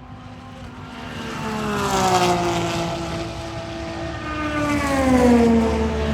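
Race cars passing at full speed, each engine note rising in loudness and then dropping in pitch as it goes by; two cars pass, about 2 seconds and 5 seconds in.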